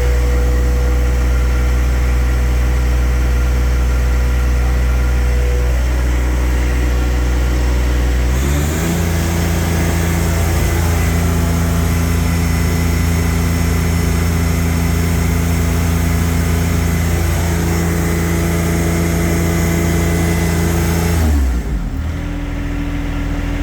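John Deere 1025R's three-cylinder diesel engine idling, then revved up about eight seconds in and held at a steady higher speed, before dropping back to idle near the end.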